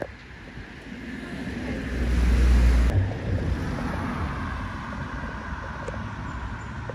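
Rushing noise of a moving train, swelling about a second in, with a heavy low buffeting of wind on the microphone for about a second near the middle, then running on steadily.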